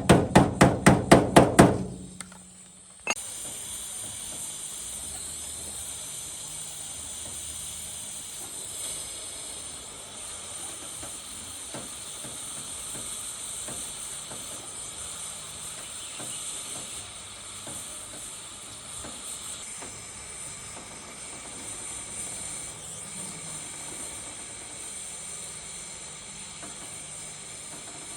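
A hammer strikes in quick, even blows, about four a second, for the first two seconds. After a short pause a steady hiss starts about three seconds in and runs on unchanged.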